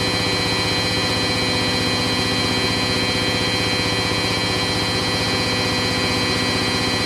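Hoover DYN9144D3X front-loading washing machine on its final 1000 rpm spin, the drum turning at a steady full speed with a constant motor whine and a fast, even hum.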